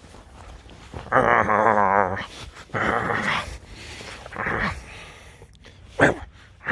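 Pet red fox vocalizing during rough play: one long warbling call about a second in, then several shorter rough calls.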